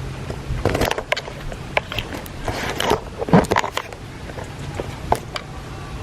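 Irregular clicks, knocks and rustles of handling, coming in short clusters. A steady low hum stops just under a second in.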